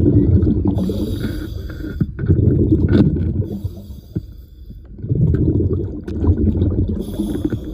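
A scuba diver breathing underwater through a regulator. Thin hissing inhalations alternate with rumbling rushes of exhaled bubbles, a full breath about every three seconds.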